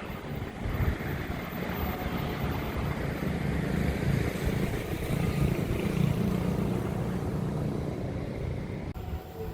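Steady low rumble of vehicle engines, which changes abruptly near the end.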